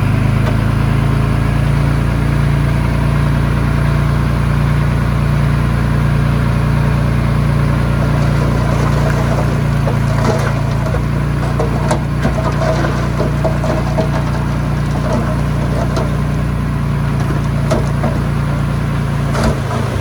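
Heavy diesel engine running steadily at an even, low speed, with a few light clicks and knocks in the second half.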